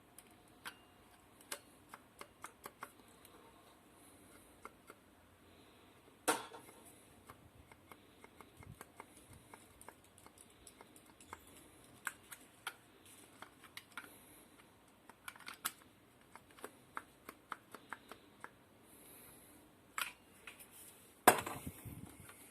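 Scattered clicks and light taps of small hard parts and tools being handled during a blender repair, with a sharper knock about six seconds in and a louder one near the end.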